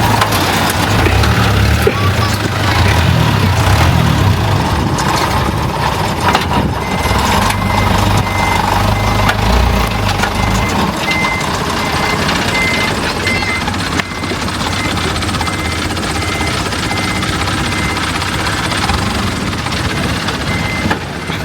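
A vehicle engine running loudly, fading after about ten seconds, while a reversing alarm sounds a string of short high beeps from about seven seconds in.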